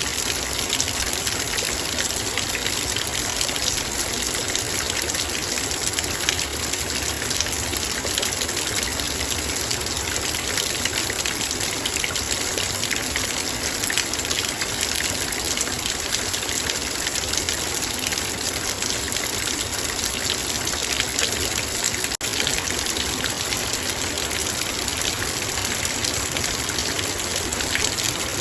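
Heavy rain falling on a metal bowl: a dense, steady patter of countless drops with fine, sharp ticks from the metal. There is a split-second gap about three-quarters of the way through.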